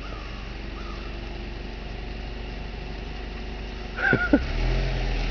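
A vehicle engine running nearby, a steady low hum that gets louder about four seconds in, with a brief squeak just as it swells.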